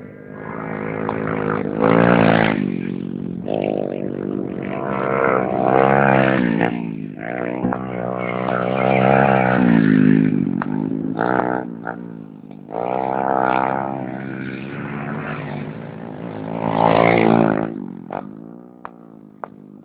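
Racing motorcycle engines revving and passing, their pitch climbing and dropping again and again as they accelerate and shift gears. The sound swells loudest about 2, 6, 10 and 17 seconds in, then fades near the end.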